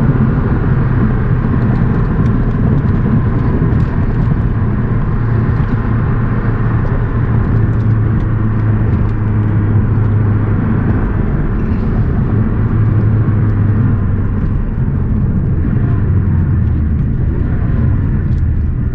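Porsche 718 Boxster S's turbocharged four-cylinder engine running under way at a fairly steady pitch, with tyre and road noise; the engine note eases off a little near the end.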